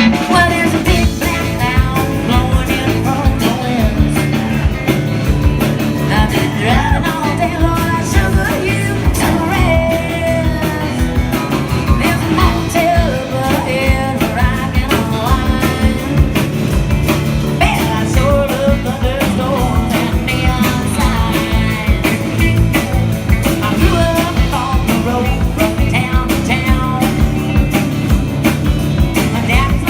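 Live band playing a fast rock-and-roll song, with a guitar melody over a steady beat.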